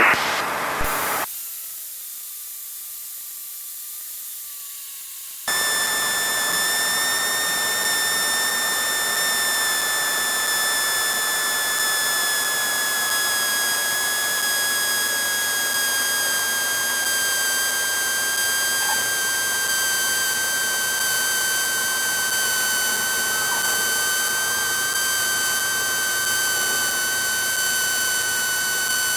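Steady cockpit noise of a Cessna 152 in flight heard through the headset audio: an even hiss with a thin high whine that slowly falls in pitch. It sets in suddenly about five seconds in, after a quieter stretch with only a faint tone.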